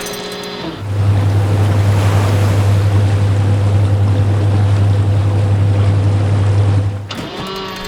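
Loud, steady low machine drone with a rushing noise over it, starting about a second in and cutting off sharply near the end.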